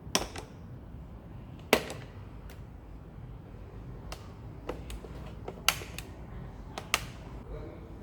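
Sharp clicks and knocks, four loud ones and several fainter ones spread unevenly, over a low, steady background hum.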